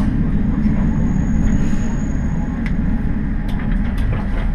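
Diesel railcar's steady low rumble, with scattered sharp clicks, heard from the front of the train.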